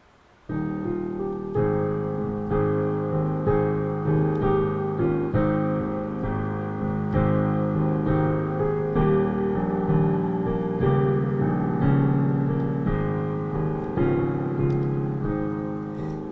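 Piano playing a slow hymn introduction in sustained chords, struck about once a second and each left to fade, beginning about half a second in.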